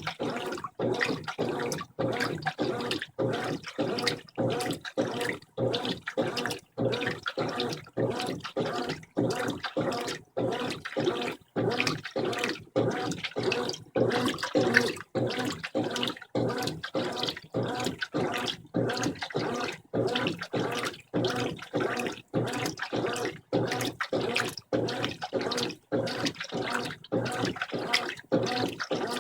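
Brastemp 15 kg washing machine agitating its load in the rinse water: rhythmic sloshing and swishing, about two strokes a second, as the agitator swings back and forth.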